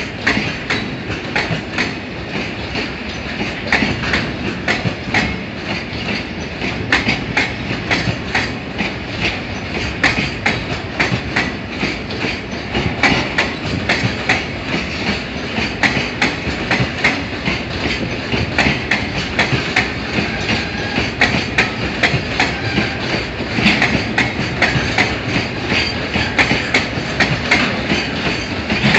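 A train running past on the tracks, its wheels clacking steadily over rail joints with a continuous rumble, the clacking heavier in the second half.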